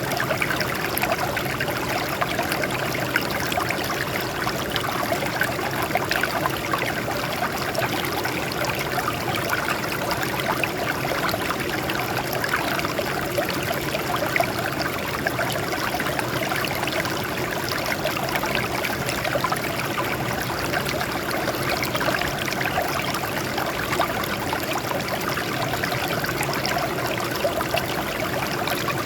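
Water flowing and splashing steadily over rocks, a continuous stream with a trickling, bubbling texture.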